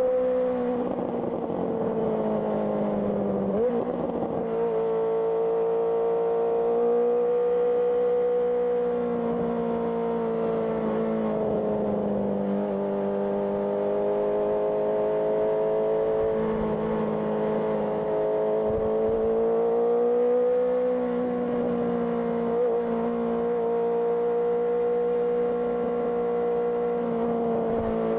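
Honda CBR650R's inline-four engine running through an IXIL IXRace aftermarket exhaust while riding at steady speed. Its pitch dips and comes back up about three seconds in, then rises and falls gently with the throttle.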